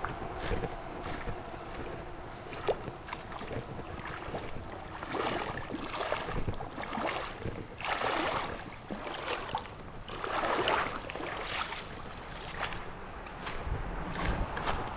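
River water swishing and splashing in several surges, the strongest about eight and ten seconds in, over a steady wash of water noise, with a few small clicks.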